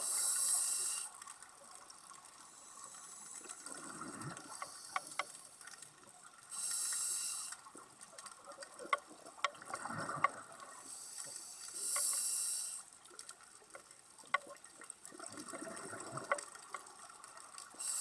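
Scuba diver breathing through a regulator underwater in a slow, regular cycle. A short hiss comes with each breath in, about every six seconds. A gurgle of exhaled bubbles comes between them, with scattered sharp clicks throughout.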